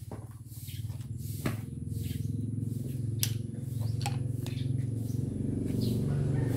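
A motorcycle engine running with a steady low hum that grows louder, with a few sharp clicks and taps over it.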